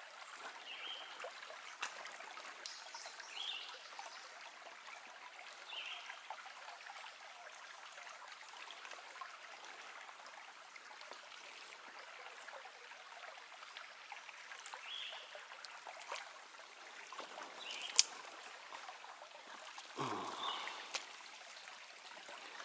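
Small creek running and trickling over stones, a steady water sound. Short high chirps come every few seconds over it, and there is a single sharp click late on.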